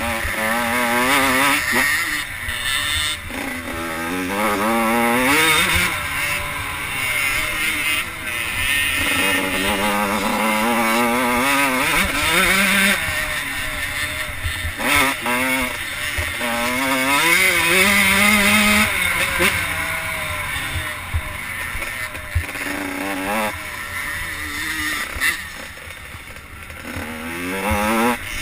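Two-stroke 85cc motocross bikes racing, engines revving up in long rising sweeps and dropping back again and again as they accelerate, shift and brake around the track.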